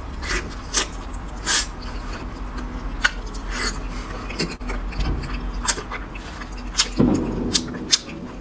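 Close-miked chewing of a big mouthful of fatty red-braised pork belly: irregular wet smacks and clicks from the mouth, about one or two a second.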